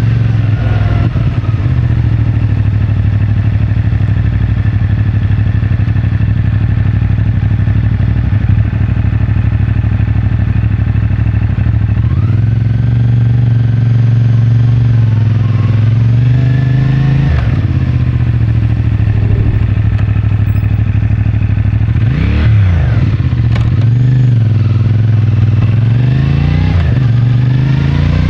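CFMoto 450MT's parallel-twin engine running under way, heard from the rider's seat: steady low revs at first, then from about halfway through the revs rise and drop several times as the bike accelerates, shifts and slows.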